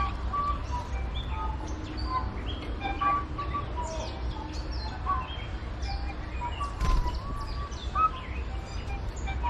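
Many small birds chirping and calling at once, short overlapping notes, over a steady low rumble, with a brief sharp click about seven seconds in.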